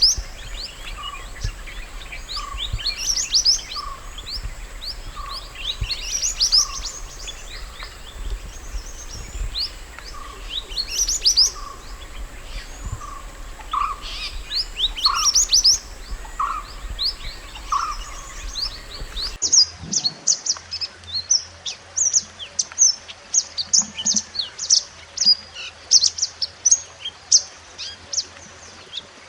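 A mantenan gunung songbird singing clusters of high, quick chirps every second or two over a lower short note repeated steadily. Just after two-thirds of the way through, the sound cuts to a cleaner recording of faster, denser high chirps.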